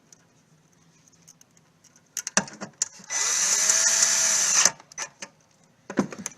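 Power drill spinning for about a second and a half, its motor speeding up and then slowing, with a few clicks of parts and tools being handled before and after.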